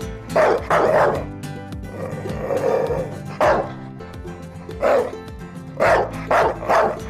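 A dog barking, about seven short barks in small groups, over a steady background music track.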